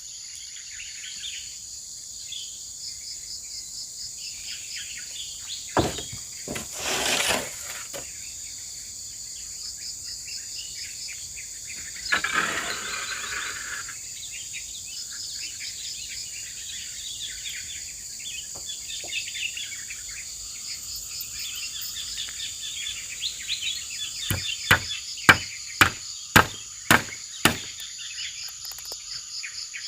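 Steady high chirring of forest insects with birds calling. Near the end comes a run of sharp chopping strikes on wood, about two a second.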